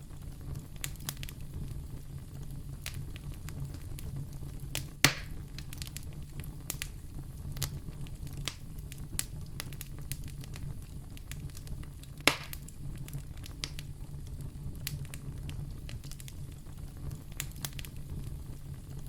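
Wood fire in a fireplace crackling, with scattered sharp pops over a low steady rumble; two pops, about five and twelve seconds in, are much louder than the rest.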